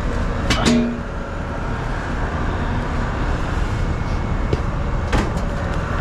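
Steady low drone of a running R22 air-conditioning condensing unit, its condenser fan and compressor running, with a short metallic clank that rings briefly about half a second in and a sharper click near the end.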